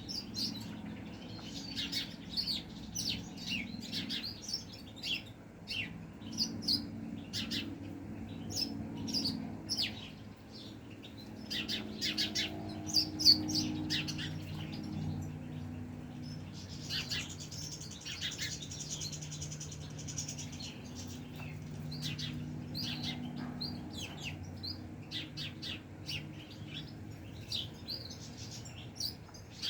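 Caged goldfinches chirping and calling in quick, irregular notes, with a buzzy twittering song a little past halfway. A low steady hum runs underneath.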